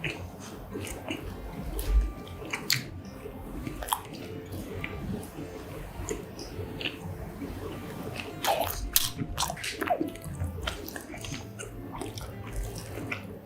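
A person biting and chewing mozzarella corn dogs close to the microphone, the fried batter crust crunching between wetter chewing sounds. The crunchy bites are loudest in bunches about two seconds in and again around nine seconds in.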